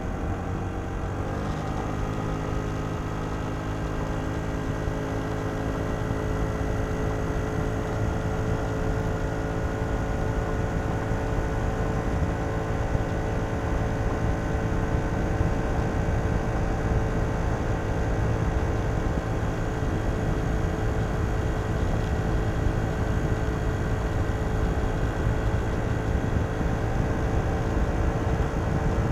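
Kymco Downtown 125i scooter's single-cylinder four-stroke engine through its stock exhaust, heard onboard while riding. The engine note jumps up in pitch about a second in as the throttle opens, then rises slowly and steadily.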